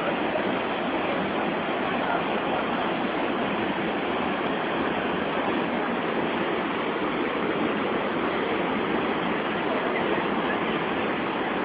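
Steady rushing of the Madeira River's rapids at the Santo Antônio falls, a constant roar of white water.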